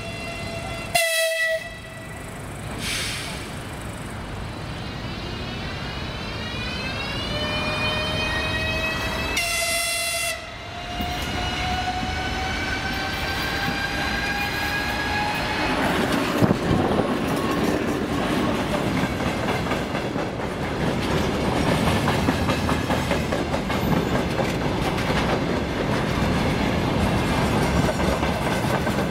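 Train horn sounding twice, a motor whine rising steadily in pitch as a train gathers speed, then a 2TE116U diesel locomotive and its freight wagons passing close by with a loud rushing noise and wheels clattering over the rail joints.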